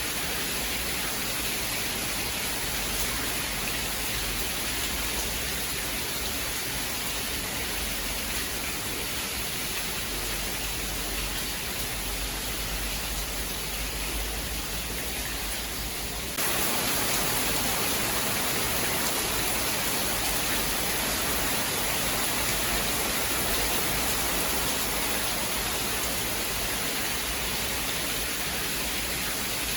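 Steady heavy rain, a continuous even hiss with no thunder. A little over halfway it switches abruptly to a slightly louder, hissier rain with less low rumble.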